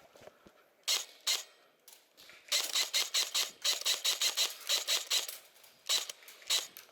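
Airsoft gun firing: two shots, then a quick run of about five shots a second for nearly three seconds, then two more shots near the end.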